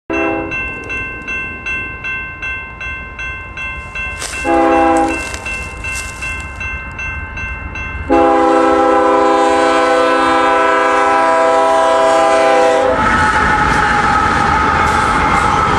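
Grade-crossing bell ringing in steady strokes, about two a second, as a BNSF coal train approaches. The lead locomotive's horn gives a short blast about four and a half seconds in, then a long, loud blast from about eight seconds. Near the end the SD70MAC locomotives pass with a heavy rumble of engines and wheels.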